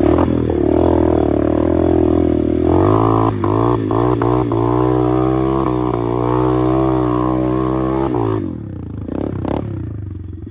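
125cc pit bike engine pulling hard under load as the bike climbs a slope of wet sand. The revs step up about three seconds in, with a few clatters, then drop off sharply near the end.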